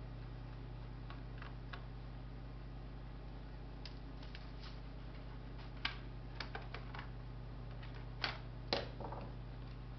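Scattered small clicks and taps of hands and tools working on a laptop's plastic case and parts during disassembly, the loudest two close together near the end, over a steady low hum.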